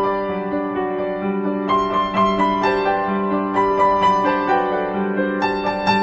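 Background piano music: a melody of held notes, each new note struck every half second to a second.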